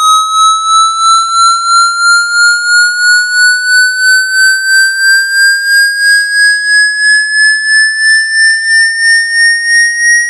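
Electronic water-eject tone for clearing moisture from a phone's speaker or charging port: a single loud tone gliding slowly upward in pitch, pulsing about three times a second.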